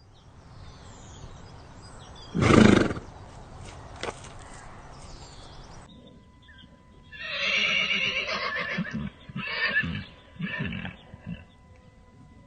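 A horse: a short, loud snort about two and a half seconds in, then a long whinny about seven seconds in, followed by two shorter neighing calls.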